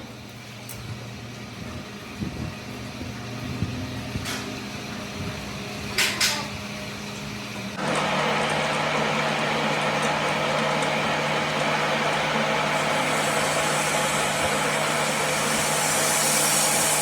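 Workshop machinery humming steadily, with a few sharp metallic clicks. About eight seconds in, a louder, harsher machining noise starts and holds steady, growing hissier near the end.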